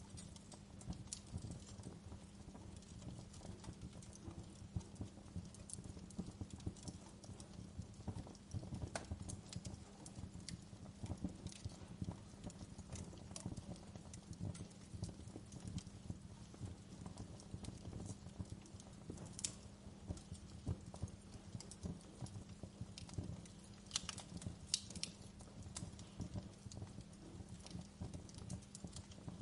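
Wood fire crackling: a constant stream of small irregular pops with a few sharper snaps, the loudest about two-thirds of the way through, over a faint low steady hum.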